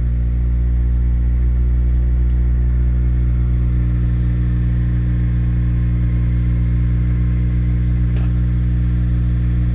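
Honda Integra DC5 Type R's 2.0-litre four-cylinder K20A engine idling steadily through a Fujitsubo Power Getter aftermarket exhaust, heard from inside the cabin. The car had sat only since the night before, and the engine was started within the previous half-minute.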